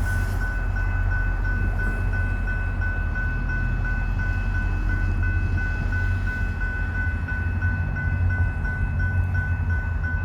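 A VIA Rail diesel locomotive runs with a deep, steady rumble while a bell rings steadily and evenly, about two to three strokes a second.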